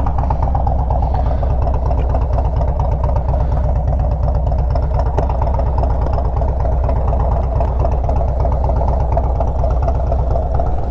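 Harley-Davidson Road Glide's 103 cubic-inch V-twin idling steadily, an even run of firing pulses with no revving.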